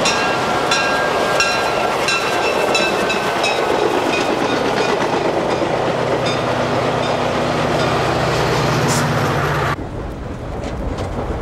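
Passenger train running past on the track, its wheels clicking over the rail joints in an even rhythm about every two-thirds of a second, over a steady rolling noise and a low hum that rises slightly in the second half. About ten seconds in the sound cuts abruptly to the quieter rumble inside a passenger coach.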